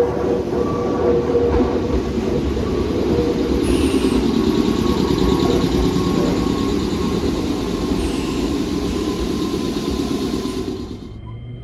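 Nankai electric train running along the rails: a steady, loud rumble with a faint whine, dropping away near the end.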